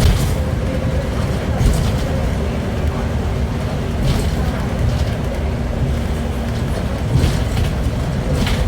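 Scania L94IA articulated bus running, a steady low engine drone with a faint steady whine and a few brief rattles.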